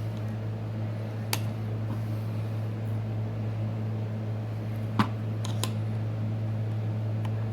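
A steady low hum, like a fan or small motor running, with a few light clicks about a second in and near the middle.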